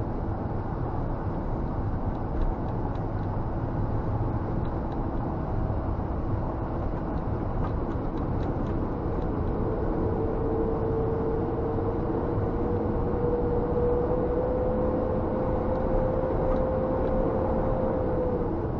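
Scania G460 truck under way, heard from inside the cab: steady engine and road noise, with a whine that climbs slowly in pitch for several seconds and then drops away near the end.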